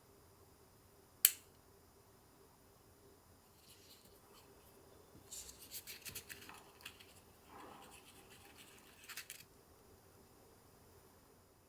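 Small handling sounds while preparing food: one sharp click a little over a second in, then several seconds of light, irregular crinkling and scraping.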